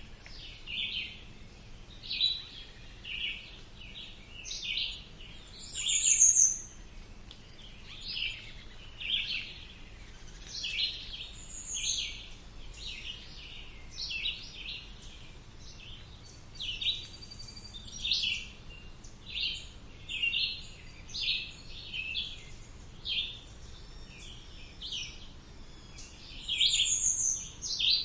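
Songbirds chirping and calling continuously in short, varied phrases. A louder, high, falling call comes three times: about six seconds in, around twelve seconds, and near the end.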